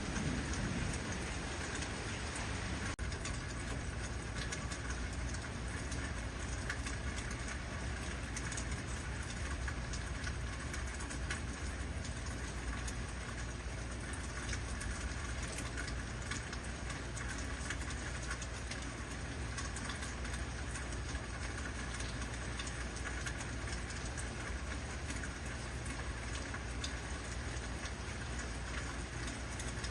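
Heavy rain falling steadily, a dense even hiss of many small drop hits, over a steady low rumble.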